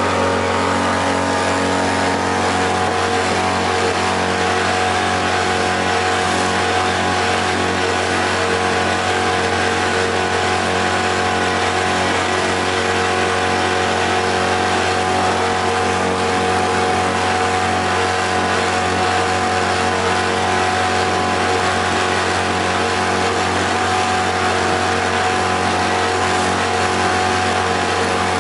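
Freshly overhauled outboard motor running steadily under way, a constant engine drone that holds one pitch throughout.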